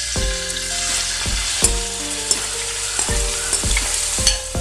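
Crushed shallots dropped into hot oil in an uruli and frying with a sizzle that starts suddenly as they go in. A metal spoon stirs them, scraping and clicking against the pan.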